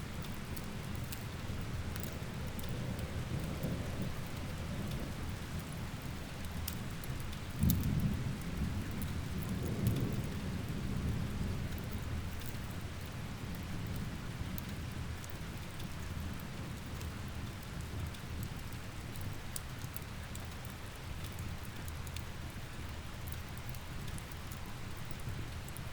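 Steady rain with thunder rumbling low, swelling about eight and ten seconds in, over the scattered small crackles of a wood fire.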